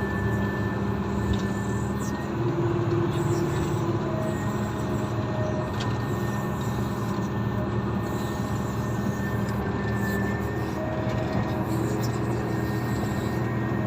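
Komatsu motor grader's diesel engine running steadily at working speed, with a thin steady high whine over the low engine note.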